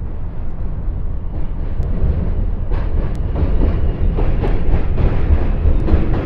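New York City subway train running across a bridge: a deep rumble that slowly grows louder, with clicking from the wheels on the track starting about three seconds in and a few brief high squeals.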